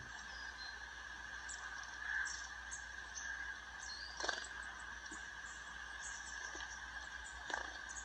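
Faint chirps of small wild birds from a bird-feeder video played on a screen, over a steady faint high tone. Two soft clicks come about four seconds in and near the end.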